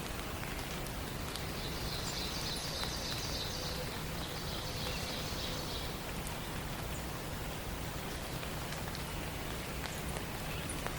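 Steady, even background hiss of forest ambience. About a second and a half in, a songbird gives one long, high trill lasting about four seconds.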